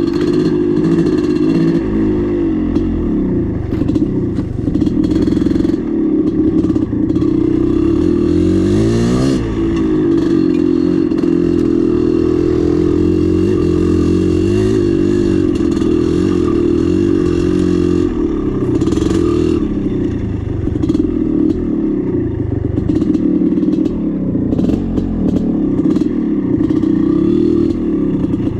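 1996 Maico 440 two-stroke dirt bike engine running under way, its pitch rising and falling with the throttle, dipping and climbing again about nine seconds in. Scattered clatter and knocks from the bike over rough ground run through it.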